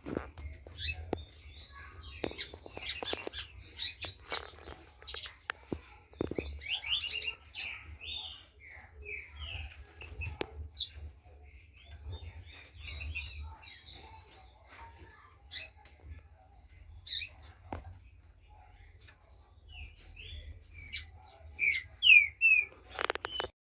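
A green-winged saltator (trinca-ferro) singing, with short slurred whistled notes and phrases, and sharp clicks scattered among them over a faint low hum. The sound cuts off just before the end.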